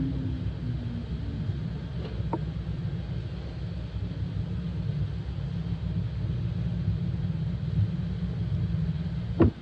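Washing machine running with a steady low rumble, its motor tone falling in pitch and fading in the first half second. A sharp click comes near the end, after which the sound drops.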